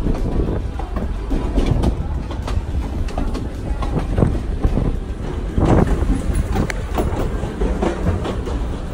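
Passenger coaches of a vintage steam excursion train rolling along the track: a steady low rumble of wheels on rail with irregular clacks and knocks.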